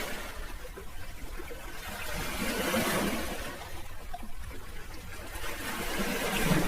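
Sea waves washing in and drawing back, the hiss swelling about three seconds in and again near the end.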